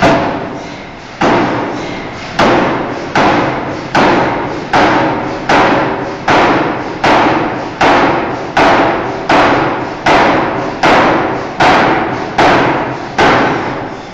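Forging hammer striking a steel bar in a steady rhythm, about one blow every 0.8 s. Each blow is a sharp thud that dies away quickly, some seventeen in all.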